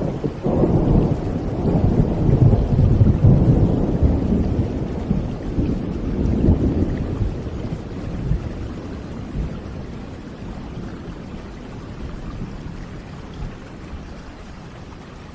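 A long roll of thunder over steady rain: the rumble builds over the first couple of seconds, peaks, swells again about six seconds in, then slowly dies away, leaving the rain.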